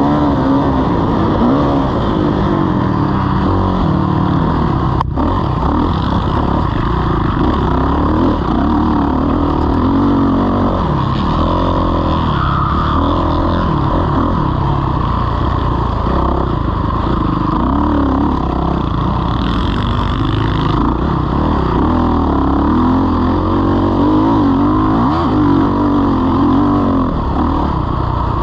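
Motocross dirt bike engine at race pace, its revs rising and falling over and over with throttle and gear changes, loud throughout.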